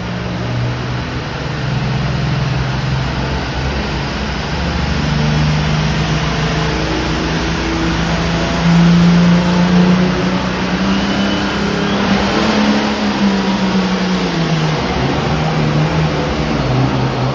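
International 1066 pulling tractor's turbocharged six-cylinder diesel running hard under load on a tractor-pull run. Its pitch wavers throughout, and a high whistle rises through the middle of the run and cuts off.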